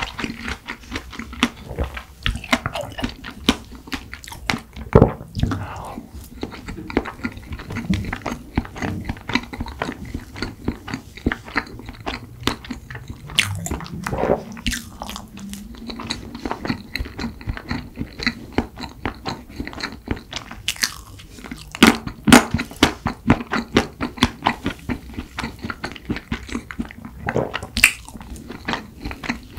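Close-miked chewing of fresh strawberries and strawberry cream rice cake: a dense run of small wet clicks and mouth smacks, with a few louder bites.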